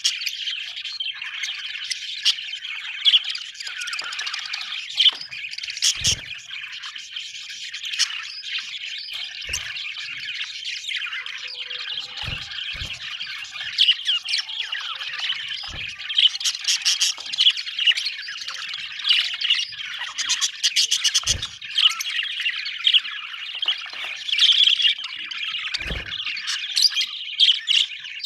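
Budgerigars chattering and warbling without pause, a dense mix of chirps, squawks and quick clicking runs, with a few short low knocks in between.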